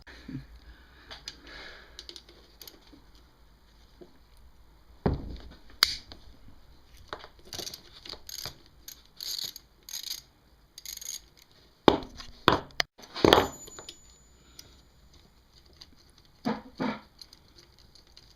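Irregular knocks, clinks and scrapes of hand work on a motorcycle engine as the stator cover and its parts are worked loose and handled, with a few sharper knocks about five seconds in, twice around twelve to thirteen seconds, and once more near the end.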